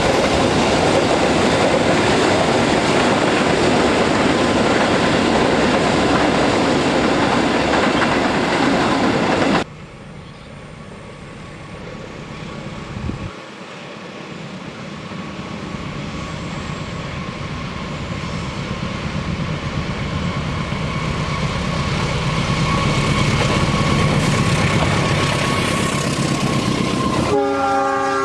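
A freight train passing close, its wheels loud on the rails, until an abrupt cut about ten seconds in. Then a train approaches, growing steadily louder, and near the end the locomotive sounds its horn: several steady tones at once.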